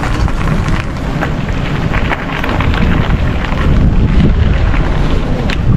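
Wind buffeting the microphone: a loud, uneven rumble with no voice over it.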